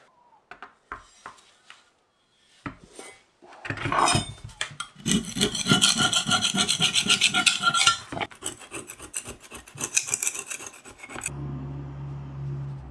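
A few light clicks, then fast, repeated scraping strokes like filing or brushing on a part. About eleven seconds in, the strokes stop and a machine starts a steady low hum.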